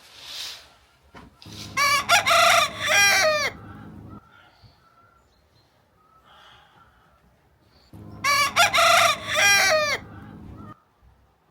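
A rooster crowing twice, each crow about two seconds long and ending in a falling note, the second crow some six seconds after the first.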